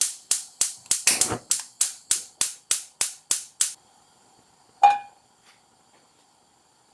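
Kitchen knife chopping on a cutting board: a steady run of about a dozen quick chops, some three or four a second, that stops a little under four seconds in. About a second later comes a single louder knock with a brief ring.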